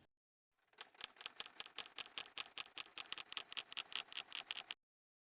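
An added clicking sound effect: a fast, even run of sharp clicks, about eight a second, starting about a second in and cutting off suddenly near the end.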